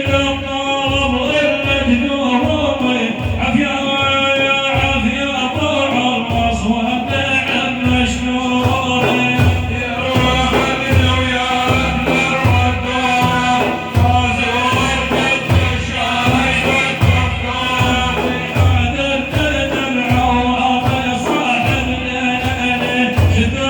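Madih, an Islamic praise song for the Prophet: male singing over a steady, regularly repeating drum beat.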